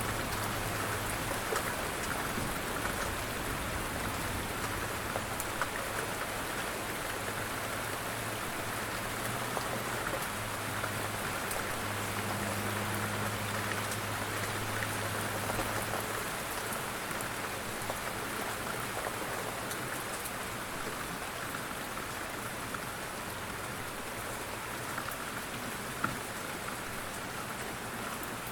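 Light rain falling steadily, a dense even patter of drops with a few louder single drops. A low hum sits under it for about the first half, then fades out.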